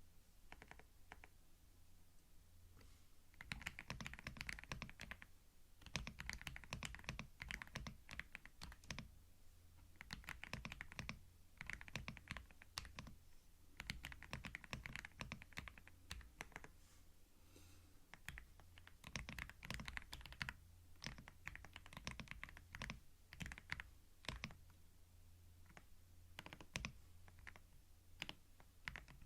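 Computer keyboard typing, recorded ear to ear on a binaural microphone: a few scattered keystrokes, then rapid runs of key clicks a second or two long with short pauses between them.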